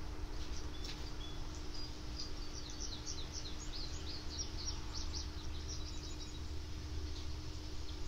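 Birds chirping outdoors, with a quick run of short high chirps in the middle, over steady background noise and a low steady hum.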